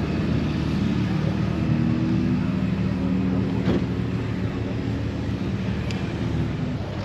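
A vehicle engine running steadily at a low, even pitch, over background noise.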